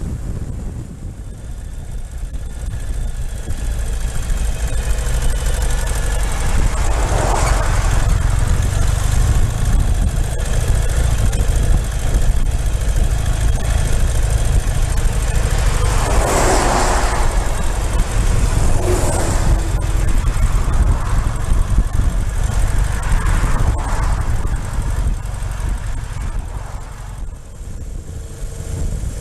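Ural motorcycle's flat-twin engine running steadily under way, a constant low rumble. A few rushing swells rise and fade over it, about 7, 16, 19 and 24 seconds in.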